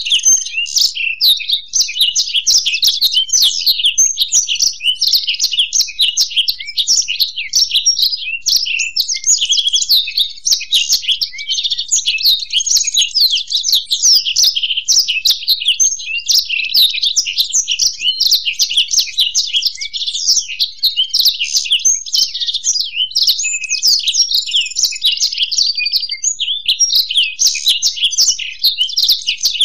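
Black-throated canary (blackthroat) and European goldfinch singing together without pause: a dense, unbroken stream of rapid twittering chirps and trills.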